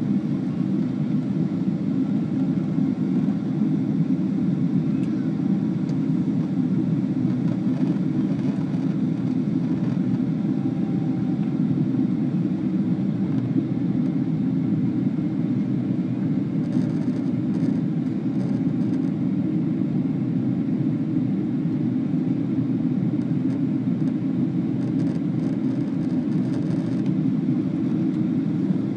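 Airliner cabin noise heard from a window seat: jet engines and rushing air as a steady, even low drone.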